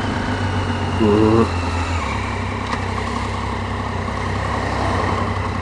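Triumph Street Triple's inline three-cylinder engine running steadily at low city speed, its note dropping a little about two seconds in. A brief pitched sound about a second in is the loudest moment.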